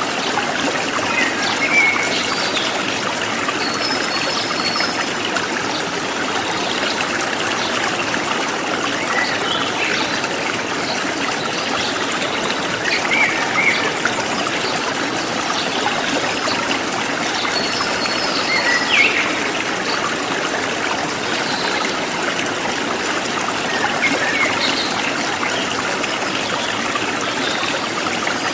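Forest stream flowing and trickling steadily, with scattered short bird chirps and calls over it.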